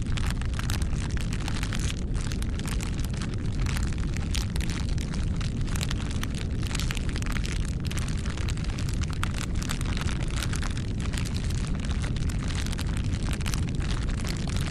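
Wood fire burning steadily: a constant low rumble of flames with dense, irregular crackles and small pops throughout.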